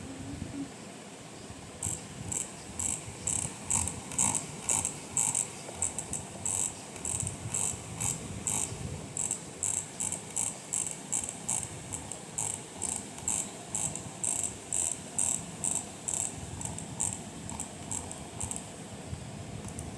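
A steady run of sharp clicks, about two to three a second, starting about two seconds in and stopping shortly before the end.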